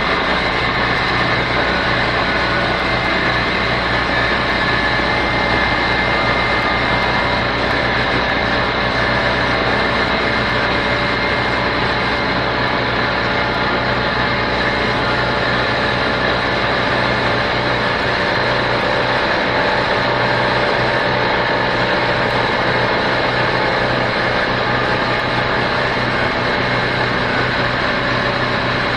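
Steady, unbroken machine drone with a hiss over it, from shop air and spraying equipment running during primer spraying.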